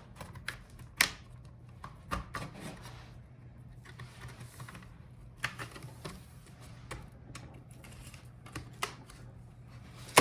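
Plastic clips of a laptop's bottom case snapping loose one after another as a pry tool is worked around the edge, giving irregular sharp clicks and small taps, about a dozen in all.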